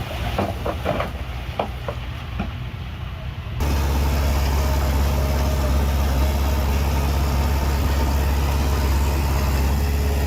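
Heavy diesel earthmoving machinery running: a low engine drone with scattered sharp knocks, then, about three and a half seconds in, an abrupt change to a louder, steady engine drone.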